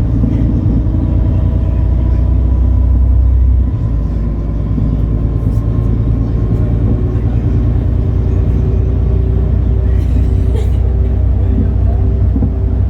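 A MAN Lion's City NL293 city bus's six-cylinder diesel engine running as the bus drives, a steady low rumble. The engine note eases slightly about four seconds in, and a faint steady whine carries on after that.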